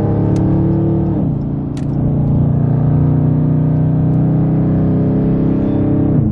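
Hemi V8 engine pulling under load while driving, its note dropping suddenly in pitch about a second in and again near the end as it shifts up.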